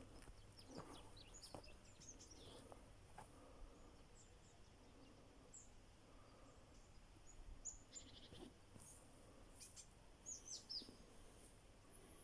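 Faint high chirps of small birds, short calls scattered through a near-silent background, with a few soft knocks.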